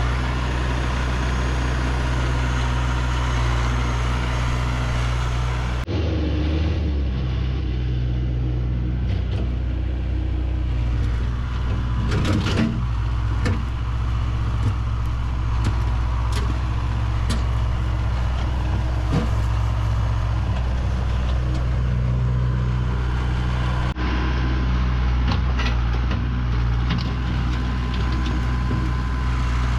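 Heavy engine, most likely a tractor's, running steadily at a constant speed, with scattered knocks and clatters over it.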